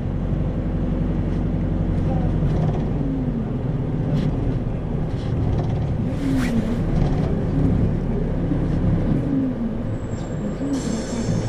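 Isuzu 2RG-LV290N4 city bus heard from inside the cabin, its diesel engine running with the pitch rising and falling as it drives. A brief high electronic tone sounds near the end.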